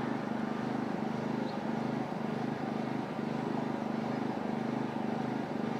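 Tractor engine idling steadily with an even, low drone.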